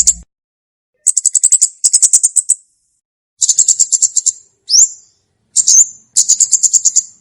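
Komade songbird calling: bursts of rapid, high, dry chips, about ten a second, each burst under a second long. About two-thirds of the way in comes a quick rising whistle, then a short slurred note.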